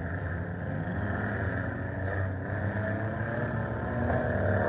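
Several scramble race cars' engines running hard around a dirt oval, a blend of engine drone and tyre noise that grows louder about four seconds in as cars come closer.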